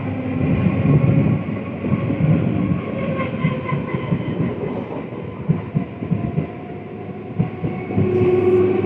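Electric multiple unit (EMU) suburban local train running, with a continuous rumble and, in the second half, separate clacks of the wheels over rail joints. A steady tone comes in near the end.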